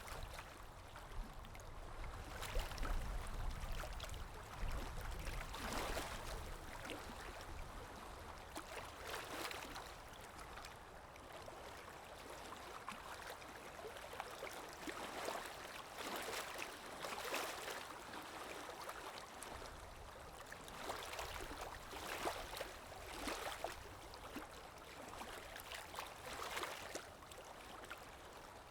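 River water gently lapping and rippling, with soft irregular swells. A low rumble sits under it for the first few seconds.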